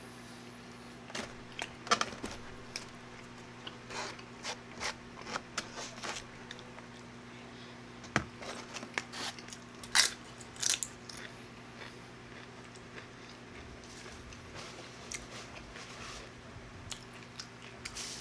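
Close-miked chewing and mouth noises of a person eating a burrito in green salsa, in short irregular bursts. There is a louder smack about two seconds in and another around ten seconds in as fingers are licked. A steady low hum runs underneath.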